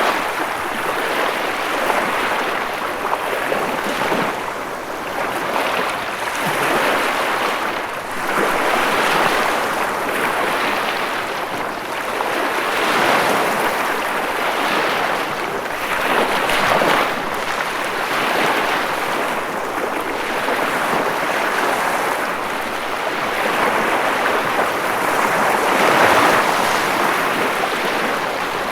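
Ocean waves breaking and washing on a shore, a continuous rushing that swells and eases every few seconds.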